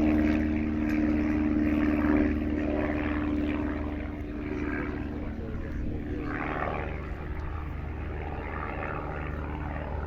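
Pitts Special S1 aerobatic biplane's piston engine and propeller droning past during a display, holding a steady note and then fading away in the second half.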